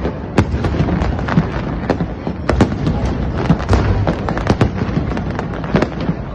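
Fireworks display going off: a rapid run of sharp cracks and bangs, several a second, over a continuous rumble of further bursts.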